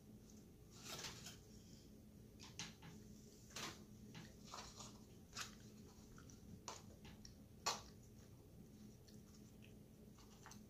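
Faint chewing and mouth sounds of a person eating, with a handful of short clicks as a metal fork picks salad from a plastic takeout container; the sharpest click comes about three-quarters of the way through.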